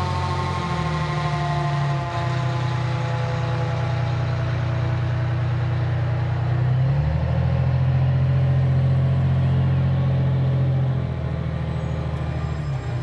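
Fire apparatus passing: a mechanical siren winding down, falling in pitch over the first few seconds, over loud, low, steady horn tones that start and stop abruptly several times.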